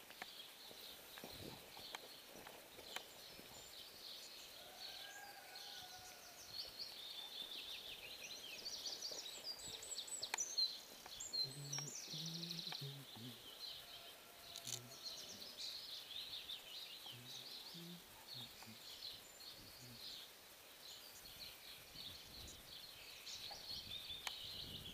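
Songbirds singing, a quiet chorus of short, high chirps and trills over faint outdoor background noise, with a couple of light clicks.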